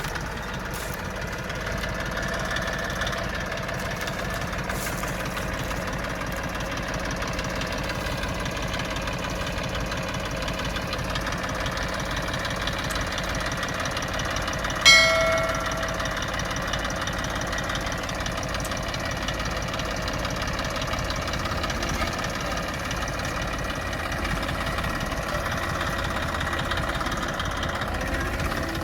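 TAFE 45 DI tractor's three-cylinder diesel engine running steadily while pulling a heavy sugarcane trailer. About halfway through, a short, loud horn blast sounds over it.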